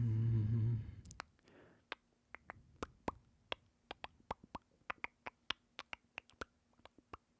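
A short hummed note from a man's voice, then a run of sharp, irregular clicks and light taps, a few a second, like small hard objects being handled.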